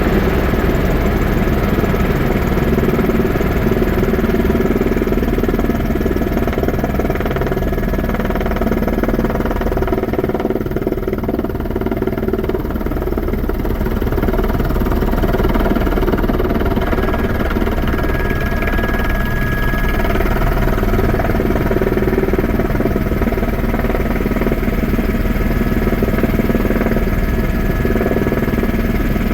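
Sightseeing helicopter's engine and rotor running with a steady, loud drone and several constant tones.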